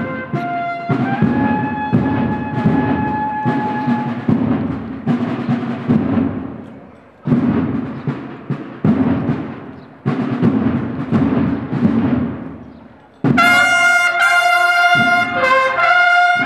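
Procession band music: drums play repeated beats and rolls under a held brass note, dying away and starting again several times, then the brass section comes in loudly and suddenly about thirteen seconds in.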